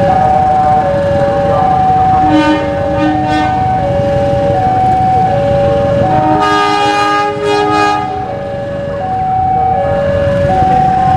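A two-tone warning alarm alternates steadily between a high and a low note over the low rumble of a passing train. The train's horn sounds two short blasts a few seconds in, then a longer blast of about a second and a half past the middle.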